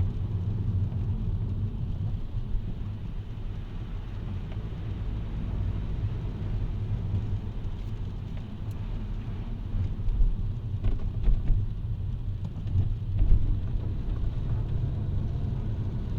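A car driving on a rain-wet road: steady low road and engine rumble under a faint hiss, with a few louder knocks about ten to thirteen seconds in.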